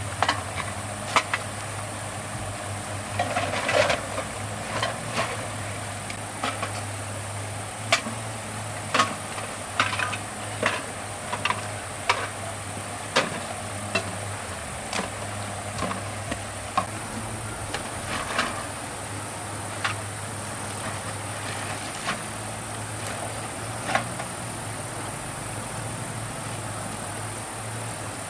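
A steady high-pitched drone with a low hum beneath it, and irregular sharp knocks and clicks scattered through the first two-thirds, thinning out toward the end.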